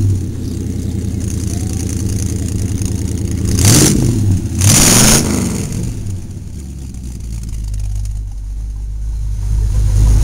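1946 Chevrolet truck's inline-six engine running, revved up and back down around four to five seconds in, with two short loud bursts of noise at that point. It settles quieter after about six seconds and picks up again near the end.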